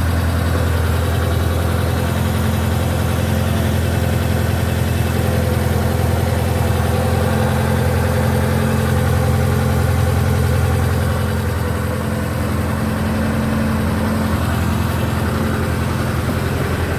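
1968 Ford Capri 1600's four-cylinder engine idling steadily and sounding sweet, with a slight dip in level about two-thirds of the way through.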